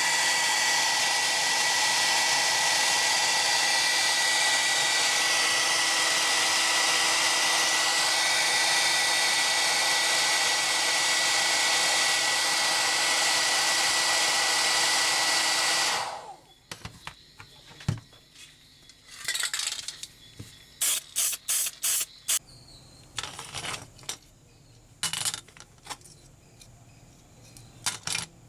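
A small power tool or blower runs steadily with a constant high whine, cutting off abruptly about sixteen seconds in. Scattered light clicks and clinks of small metal parts being handled follow.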